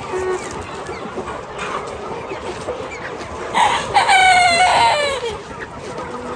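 A rooster crows once, a long pitched call starting about three and a half seconds in that holds steady and drops at the end, over chickens clucking.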